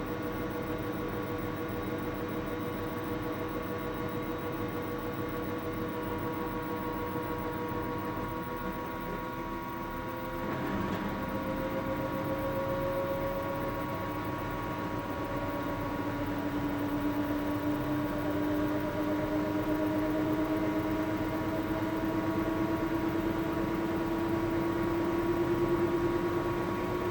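Samsung washing machine on its spin cycle, heard from inside the drum: a steady motor hum with whining tones. About ten seconds in the sound shifts, then the whine rises slowly in pitch and grows a little louder as the spin picks up speed.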